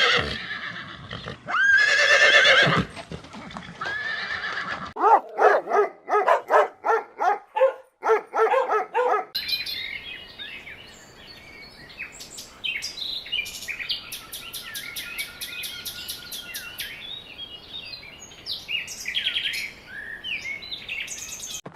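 A horse whinnying: a run of rapid, quavering neighs around the middle, after a few honking calls at the start. Then comes outdoor ambience with many short bird chirps and clicks.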